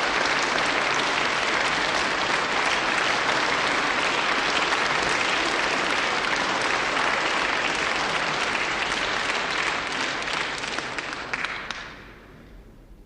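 Concert audience applauding after a sung song, a dense steady clapping that thins and dies away about twelve seconds in.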